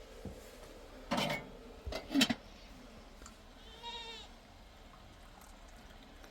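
Livestock bleating: two loud short calls about one and two seconds in, then a thinner, wavering bleat about four seconds in.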